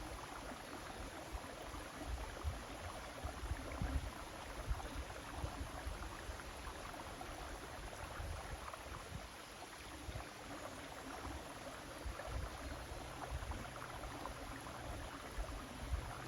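River water flowing as a steady rushing hiss, with irregular low rumbles underneath.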